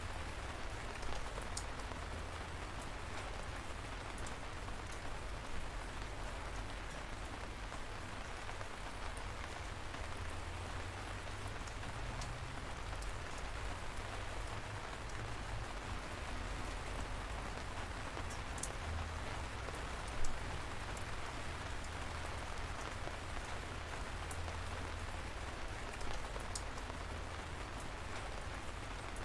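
Steady light rain: an even patter of drizzle, with a few single louder drops striking close by, the sharpest about twenty seconds in. A low rumble runs underneath.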